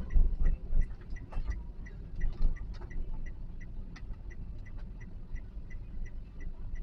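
Car indicator clicking steadily, about three ticks a second, over the low rumble of the Toyota Calya's engine and road noise inside the cabin.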